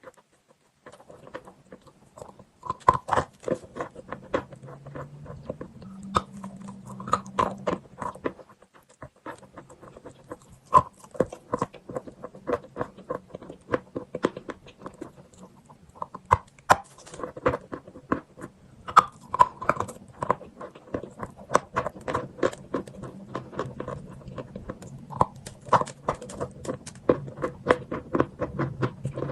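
Chalk being bitten and chewed close to the microphone: a dense, irregular run of crisp crunches and clicks throughout.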